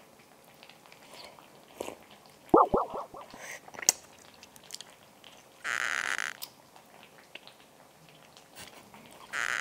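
Chewing and biting on a piece of tough, springy braised lamb skin that has not softened after two hours of stewing. There are a few short squeaky sounds about two and a half seconds in, and two short hissing bursts, the loudest sounds here, around six and nine seconds.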